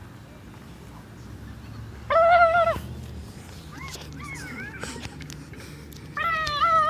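Prank noise of a loud, animal-like whining cry, heard twice, about two seconds in and again near the end, each held for most of a second at a steady pitch. Fainter wavering cries come between them.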